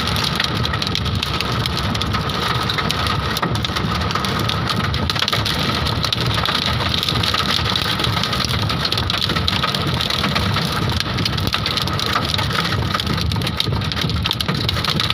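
Hailstorm: hailstones and heavy rain pelting down in a dense, steady clatter of tiny impacts.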